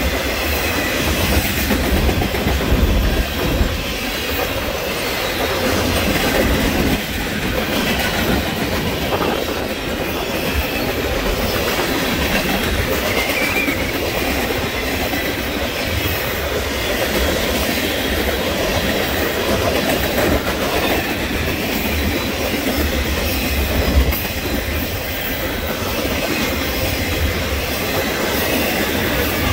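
Union Pacific freight train cars rolling past close by: a steady rumble and clatter of wheels on the rails, with a faint high wheel squeal now and then. Wind buffets the microphone, adding a gusty low rumble.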